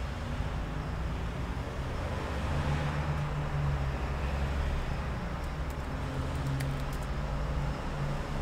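Steady low rumble with a faint hum, and a few faint clicks about six to seven seconds in.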